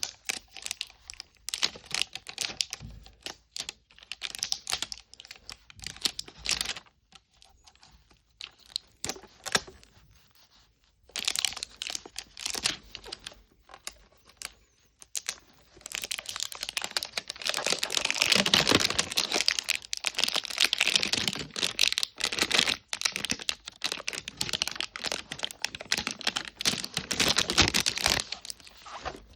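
Toy packaging unwrapped by hand: wrapping crinkling and tearing. The rustles are scattered at first and nearly continuous over the second half.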